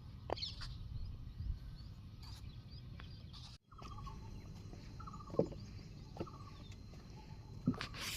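A bird giving several short, rapidly pulsed calls that fall in pitch, over a low steady rumble.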